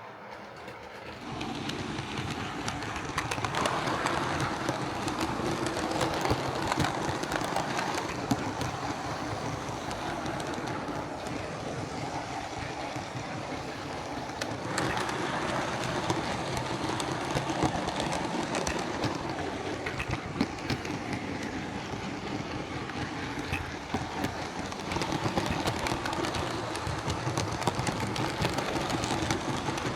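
Bachmann OO gauge Class 37 model diesel locomotive running on the layout track: a steady motor whirr with a dense patter of wheel clicks over the rails, getting louder about a second in. The motor was just cleaned out with contact cleaner and is running again.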